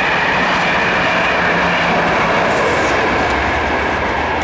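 Locomotive-hauled passenger train rolling across a masonry railway viaduct: a steady rush of wheel and rail noise.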